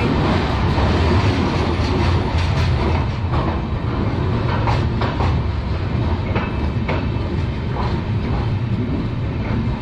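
Passenger train pulling slowly out of a station, heard from on board: a steady low rumble with irregular clicks and clanks of the wheels over the rail joints.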